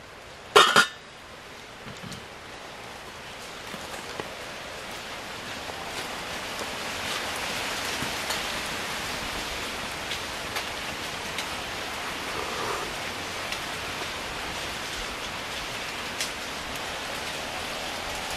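A steady hiss that swells over the first several seconds and then holds, with a single sharp, loud sound about half a second in and a few faint ticks.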